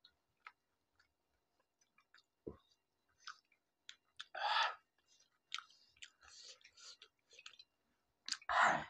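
Close-miked eating of pani puri: chewing with scattered wet mouth clicks and small crunches of the crisp puri shells, and two louder crunching bursts, one about halfway through and one near the end.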